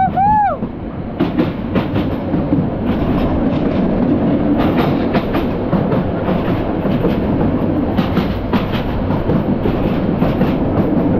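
A passenger train carriage running at speed, heard from inside: a steady rumble of wheels on rails with irregular clacks and rattles over the track. A brief tone that rises and falls sounds in the first half second.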